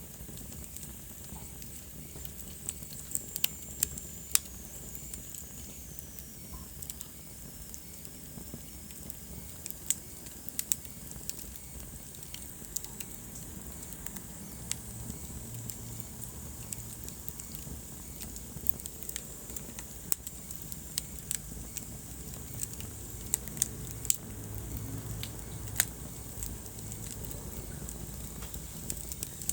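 Wood fire burning in a fireplace: irregular sharp crackles and pops over a steady low rumble of the flames. A faint high whistle slides down in pitch a few seconds in.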